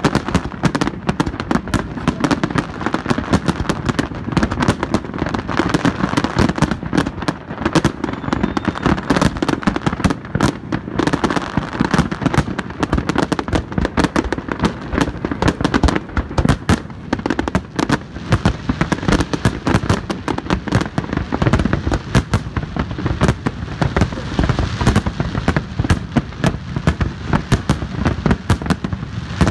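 Large fireworks display: a dense, unbroken barrage of rapid bangs and crackling shell bursts.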